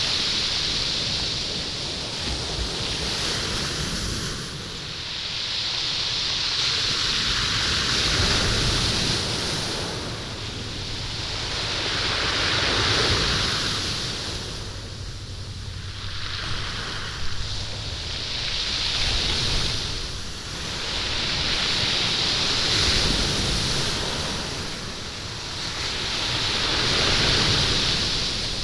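Waves surging up a stony beach and washing back, rolling and rattling the stones. The sound rises and falls in slow surges about every four to five seconds.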